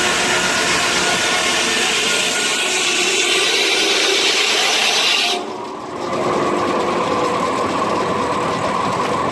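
Steam-powered sawmill blade cutting through a log with a loud, high ringing noise; about five seconds in the high part cuts off suddenly and a steadier, lower running sound follows.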